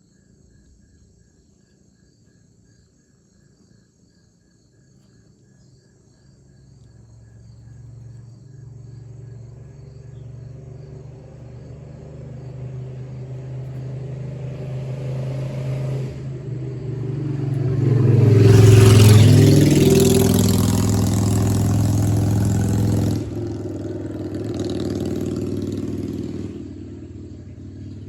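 A motor vehicle driving past: its engine grows louder over several seconds, is loudest with tyre hiss for a few seconds as it passes, then falls in pitch and fades away.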